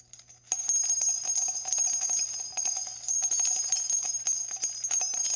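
Small bells jingling rapidly, many quick overlapping clicks over a steady high ringing, starting about half a second in.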